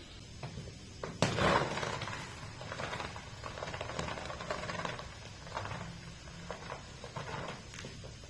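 Carpet-cleaning work: a sharp knock about a second in, then irregular scrubbing and rubbing noise with scattered small ticks.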